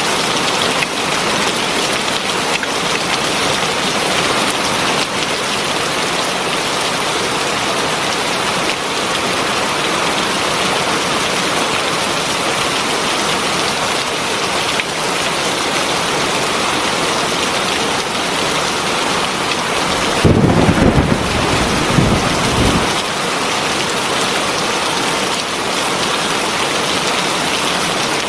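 Heavy rain falling steadily in a dense hiss. About twenty seconds in, a low roll of thunder rumbles for two or three seconds, the loudest sound here.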